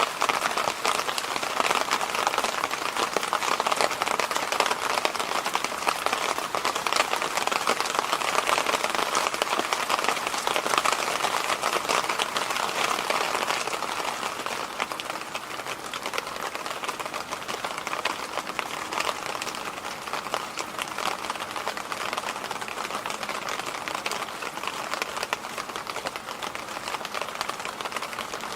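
Electric fan running steadily: an even rush of air with a fine, fast crackle through it, easing slightly about halfway through.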